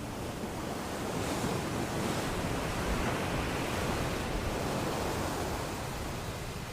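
Ocean waves breaking on a beach: a wash of surf that swells about a second in, peaks midway and eases away near the end.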